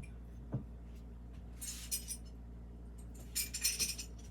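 Fired, glazed ceramic dishes clinking against each other as they are handled and set down: a knock about half a second in, then short runs of bright clinks around the middle and near the end, over a low steady hum.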